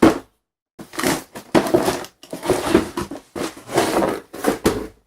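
Cardboard box and packing being handled: a run of irregular scraping and crinkling rustles as a jump starter is worked out of its box.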